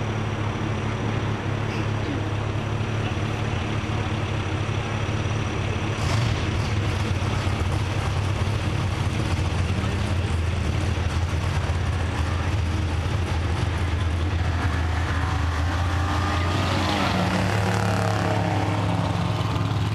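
Drag-racing car's engine running steadily at the starting line, with a sudden louder surge about six seconds in. Near the end a car drives past close by, its engine note rising and then falling.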